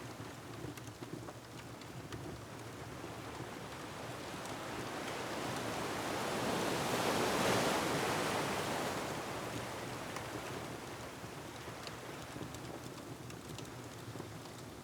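An ocean wave surging in, swelling to a peak about halfway through and then ebbing away, over a steady wash of surf, with faint wood-fire crackles scattered throughout.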